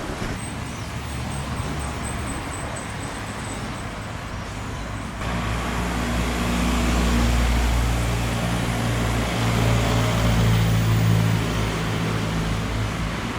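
Street traffic noise with a motor vehicle's engine running close by. The engine hum comes in abruptly about five seconds in, grows louder for a few seconds, then eases off near the end.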